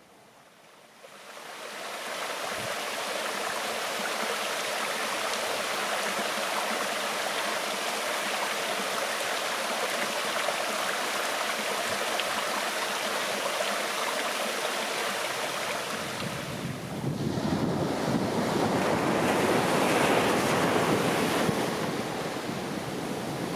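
Steady rushing water fading in over the first two seconds, with a louder, fuller surge from about two-thirds of the way in that eases off near the end.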